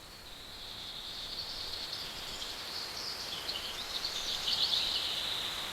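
Outdoor nature ambience: a steady high-pitched chorus of small creatures, which swells a little after the middle and eases near the end.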